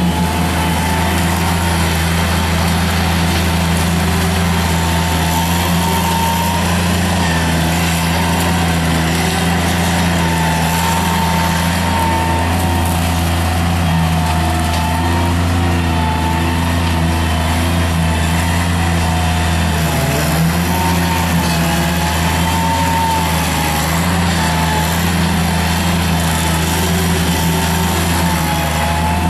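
A Bobcat mini skid steer loader's engine runs steadily while driving a CID Xtreme 42-inch hydraulic brush cutter. A high whine wavers in pitch over the steady engine note, and the engine note dips briefly about twenty seconds in.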